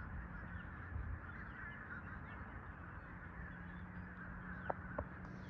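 A large flock of birds calling together, many calls overlapping into a continuous din, with two short clicks near the end.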